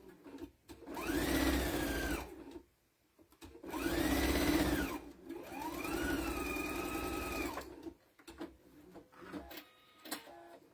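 Electric sewing machine stitching in three runs. Its motor whine rises as it speeds up and falls as it slows, and the last run holds steadier at a lower speed. A few faint clicks follow near the end.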